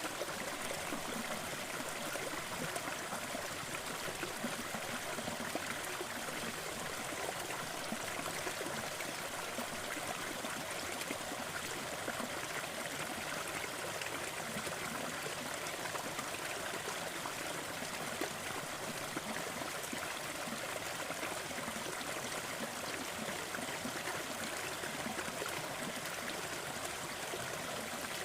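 Steady, even rushing noise with a fine crackle running through it: a fireplace crackling mixed with a continuous noise bed in a sleep soundscape.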